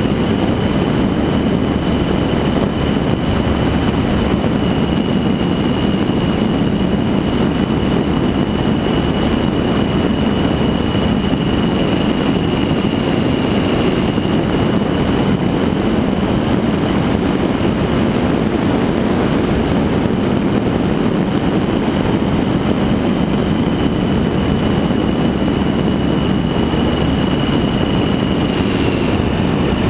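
Suzuki V-Strom 1000 motorcycle's V-twin engine running steadily on the move, heard from on the bike, with a constant drone that neither rises nor falls.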